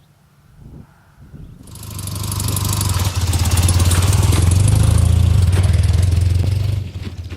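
A motor vehicle's engine running loud and steady, building up over about a second and then dropping off sharply near the end.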